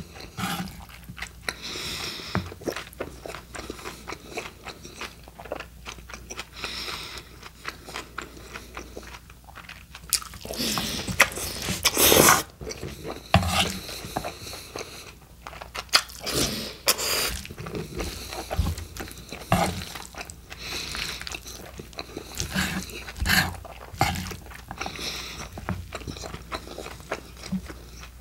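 Close-miked chewing of a mouthful of steak burrito filling: wet smacking and crunching mouth noises in irregular bursts, loudest about twelve seconds in.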